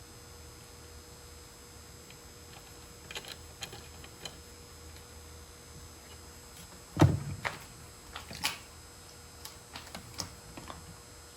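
Workshop handling sounds: scattered light knocks and clicks, with one louder thump about seven seconds in, over a faint steady hum.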